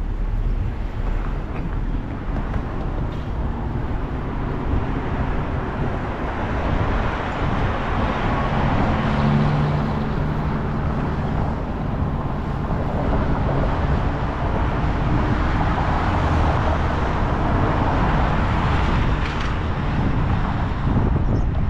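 Road noise outdoors: a steady rush of traffic and wind on the microphone, with no voices.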